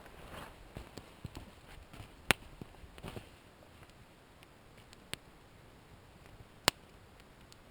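Campfire crackling with a few sharp pops, two of them loud, about two and a half and near seven seconds in. Over the first three seconds there is soft knocking and shuffling of sticks and embers being pushed about.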